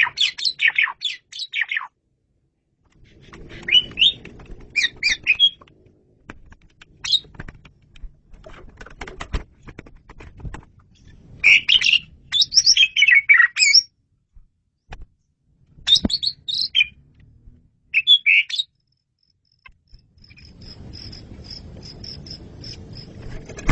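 Asian pied starling (jalak suren) singing: bursts of harsh chattering and whistled phrases broken by short silences, then a fast string of high repeated notes near the end.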